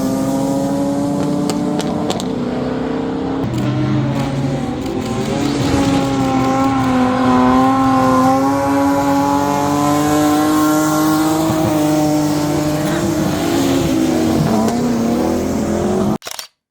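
Drift car engine held at high revs, its pitch wavering up and down and climbing a little in the middle, then cutting off abruptly near the end.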